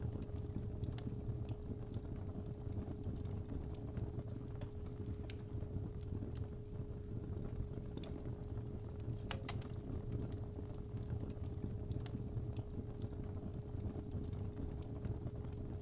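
Fireplace fire crackling, with scattered sharp pops over a low rumble. A steady 417 Hz tone sounds throughout.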